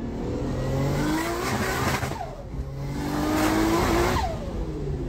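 Car engine revving hard under acceleration, its pitch climbing twice and dropping at about 2 s and again just past 4 s, as on upshifts, with tyre noise from a skid throwing up tyre smoke.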